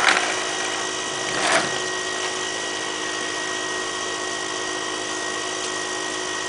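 Small electric air pump running steadily with an even hum, pumping a basketball up to around 70 to 77 psi. Two brief noises break in, one right at the start and one about a second and a half in.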